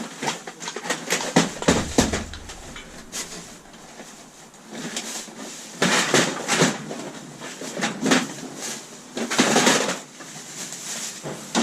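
Scrap metal and wire being handled and worked by hand: irregular clicks and knocks, with two longer stretches of scraping and rattling about halfway through and near the end.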